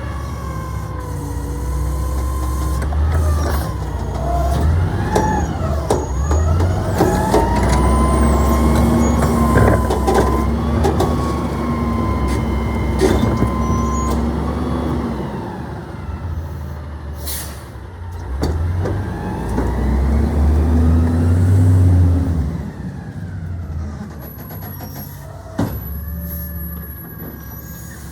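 Garbage truck running, its engine and drone pitch rising and falling over several seconds as if working under load, with scattered knocks and clanks.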